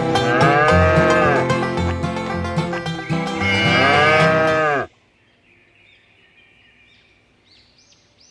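A cow mooing twice, each moo rising and then falling in pitch, over plucked-string music. The music cuts off suddenly about five seconds in.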